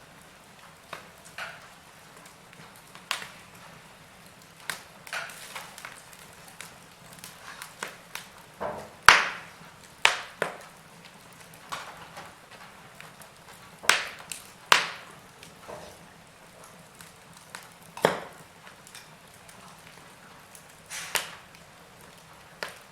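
Wood fire crackling in a fireplace: irregular sharp pops and snaps, some much louder than others, over a soft steady hiss.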